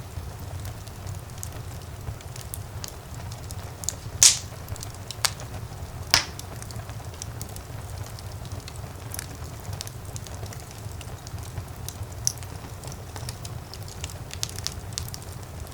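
Wood fire burning in a fireplace: a steady low rumble of flames with scattered crackles and a few loud pops, the sharpest about four and six seconds in.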